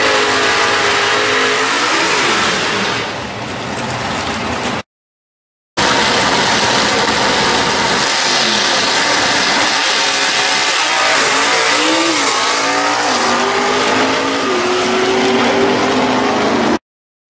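Two drag-racing muscle cars, a 1968 Chevelle and a black rival, revving hard at the line and then running at full throttle. Their engine pitch climbs and drops repeatedly as they shift up through the gears. The sound cuts out abruptly for about a second, around five seconds in.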